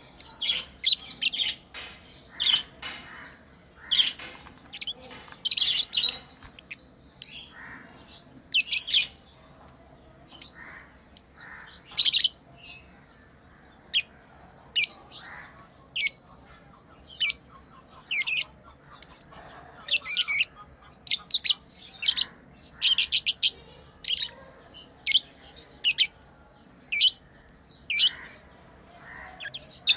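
Pet lovebirds chirping: short, shrill high-pitched calls, repeated irregularly about once a second.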